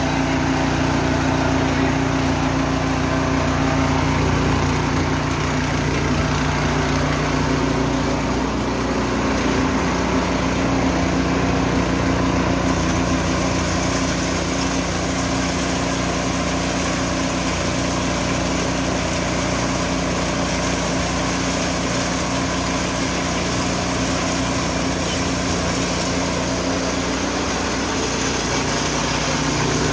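Engine-driven Richi KD 350 rice and corn milling machine running steadily, with a small shift in its engine note about nine seconds in and a rise in hiss from about thirteen seconds.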